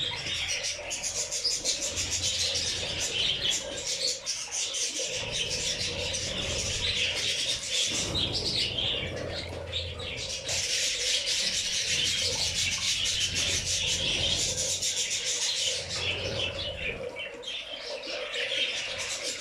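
A flock of budgerigars and zebra finches chirping and chattering, with wings flapping and fluttering as they bathe. A steady low hum runs underneath.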